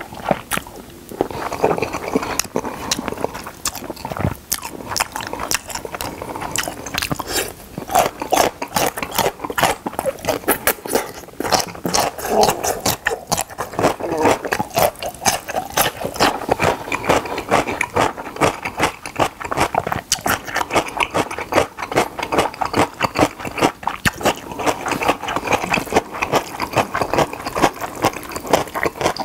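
Close-miked chewing and crunching of yellow pickled radish and black-bean-sauce noodles, with many small irregular crunches and wet mouth sounds.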